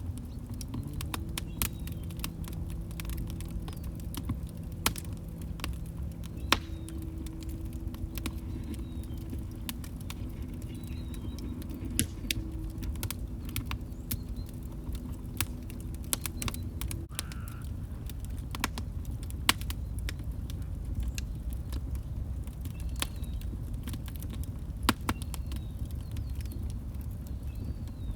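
Log fire burning with a low steady rumble and irregular sharp crackles and pops from the burning wood. A faint low steady hum runs underneath through the first half and cuts off suddenly about two-thirds of the way through.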